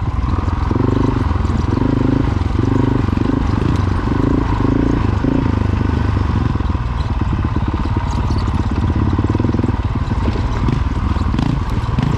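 Dual-sport motorcycle's single-cylinder engine running while under way, rising and falling about twice a second for the first several seconds, then steadier.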